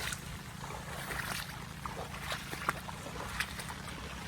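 Rain falling and water running as a flooded rice paddy drains, with many small drops tapping close by at irregular moments.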